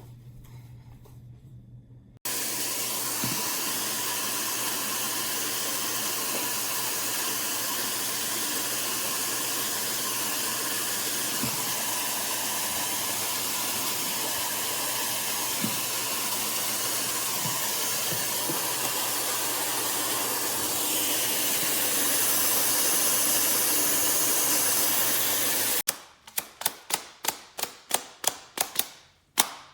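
Miele Complete C3 Marin canister vacuum cleaner with its SEB236 powerhead running, a steady loud rushing hiss over a low hum that starts suddenly and grows a little louder about twenty seconds in. It stops abruptly near the end, followed by a quick run of about a dozen sharp clicks.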